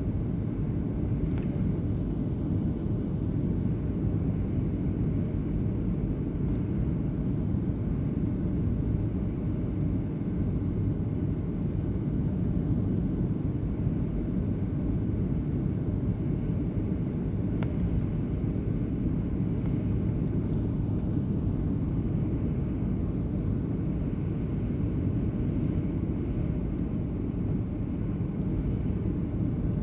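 Airliner cabin noise in flight: a steady low rumble of engines and airflow heard from a passenger seat, even throughout.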